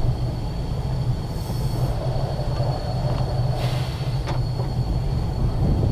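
Ex-Liverpool Corporation tram 869 rolling along the track with power off, a steady low rumble from its wheels and running gear. Two short hisses come about 1.5 and 3.7 seconds in, and a few sharp clicks at about 3 and 4 seconds.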